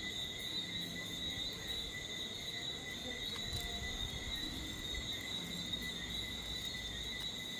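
Night insects, crickets, singing in a steady, continuous high-pitched chorus.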